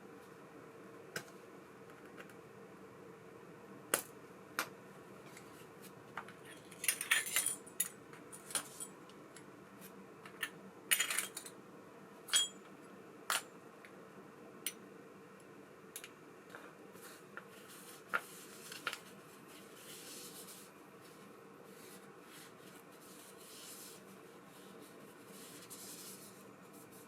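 Scattered sharp clicks and two short clatters of small metal parts and tools being handled at a workbench while a baitcasting reel is serviced, over a faint steady hum.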